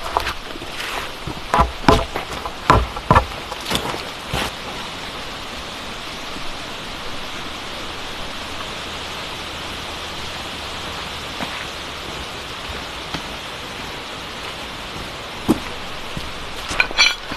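Steady heavy rain hissing through a storm, with several sharp knocks in the first few seconds and a couple more near the end.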